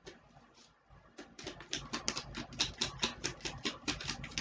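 A deck of oracle cards being shuffled: after a quiet first second, a fast run of crisp card snaps and flicks, about eight a second.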